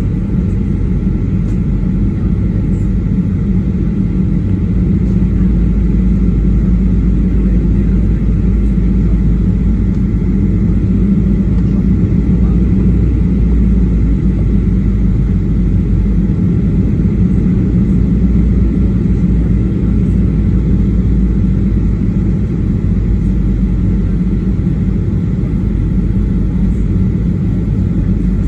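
Steady cabin noise inside a Boeing 737-800 in flight on descent: a constant low rumble from the CFM56-7B engines and the airflow, with a faint steady whine above it.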